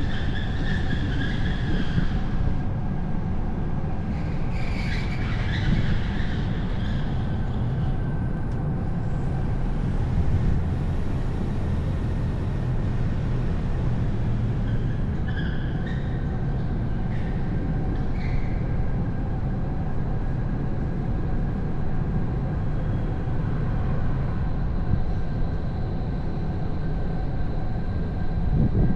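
Car driving on a winding road: a steady low rumble of road and wind noise, with brief high squeals near the start and again about five seconds in.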